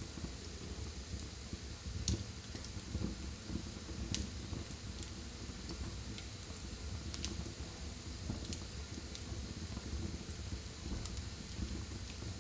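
Wood fire burning in a fireplace: a steady low rumble of the flames with a few sharp crackles and pops from the burning wood, the loudest about four seconds in.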